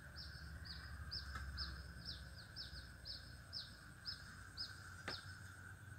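A bird calling, a steady series of short falling chirps, about two a second, that stops about five and a half seconds in. A single sharp click sounds just after five seconds.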